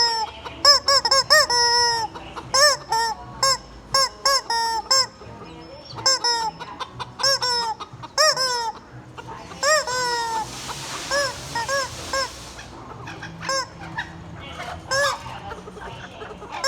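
Rubber squeeze chicken squawking again and again in short honks that arch up and down in pitch, in quick runs with brief pauses. A breathy hiss comes in about ten seconds in.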